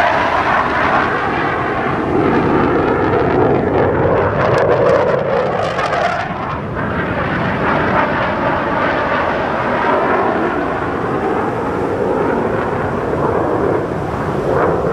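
Fighter jet engine noise, loud and continuous, with the pitch of the noise slowly drifting as the aircraft moves.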